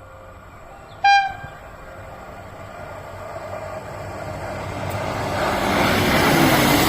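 A train sounds one short horn blast about a second in, then draws closer, the rumble of the wheels and engine growing steadily louder toward the end.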